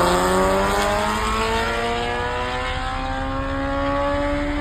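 Motorcycle engine accelerating hard under full throttle in one gear, its pitch climbing steadily.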